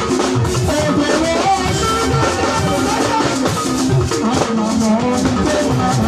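Gospel band music with a steady beat of drums and shakers under pitched instruments.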